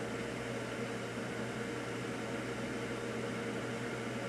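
Steady background hum and even hiss, with no bangs or pops.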